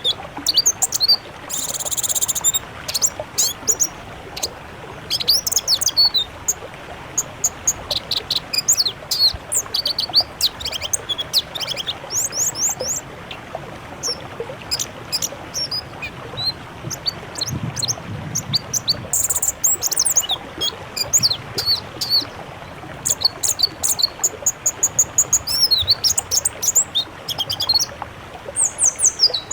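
Several songbirds singing in quick, varied phrases of high chirps, whistles and trills, with two short harsh buzzing bursts, about 2 and 19 seconds in. It is a mixed masteran, a tutor-song recording of Indonesian songbirds.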